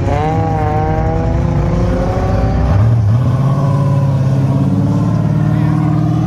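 Car engines revving and accelerating as cars drive past. One engine climbs in pitch over the first second, then a deeper engine comes in about three seconds in and pulls steadily, its pitch slowly rising.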